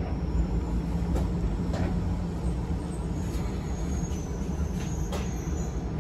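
Steady low rumble inside a car of an Izuhakone Railway 7000-series resistance-controlled electric train, with a few light clicks and a faint high whine about halfway through.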